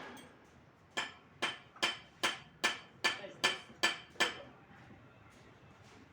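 Hammer striking a metal engine part nine times in a steady rhythm, about two and a half blows a second, each a sharp metallic strike with a short ring.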